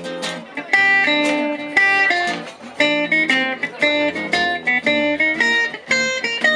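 Live jazz manouche (gypsy jazz) band playing an instrumental passage, with quick plucked guitar notes out in front.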